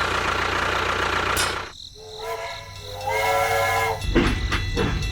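A steady motor sound cuts off, then a horn sounds for about two seconds with several tones together, followed by rattling clicks near the end.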